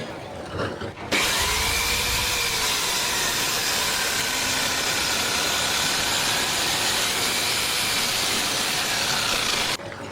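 A power tool running steadily with a slightly wavering pitch; it starts abruptly about a second in and cuts off suddenly near the end.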